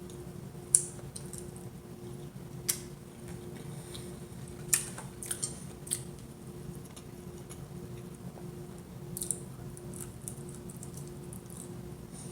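Close-up eating sounds of a person eating pasta: quiet chewing and mouth sounds, with a scattering of sharp clicks and smacks, over a faint steady hum.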